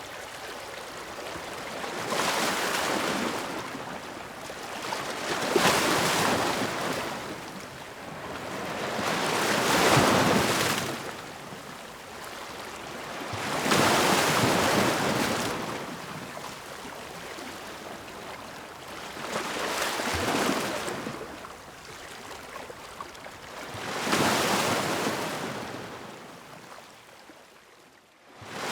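Ocean waves breaking on the shore, six surges that swell and wash back out every four to five seconds. The surf drops away almost to nothing just before the end, then comes back at full strength.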